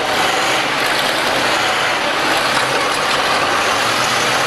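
Demolition derby cars running together: a loud, steady din of engines and rattling metal.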